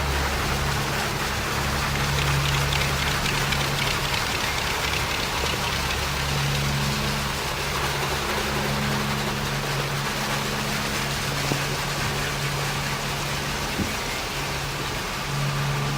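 Iteco rollover truck wash at work: a steady rush of water spray and side brushes against the truck, over a low machine hum that drops out and comes back.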